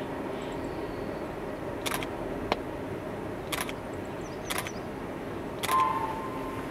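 Ikawa Line trolley train running along a viaduct across the valley, a steady hum, with five sharp clicks spread through it; the last and loudest, near the end, is followed by a steady high tone.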